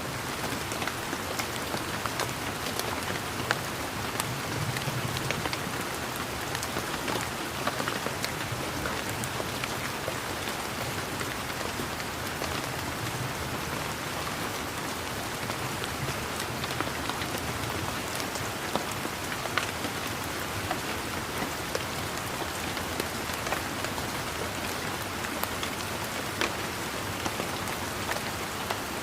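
Steady rain falling, a constant hiss with many individual drops ticking sharply close by.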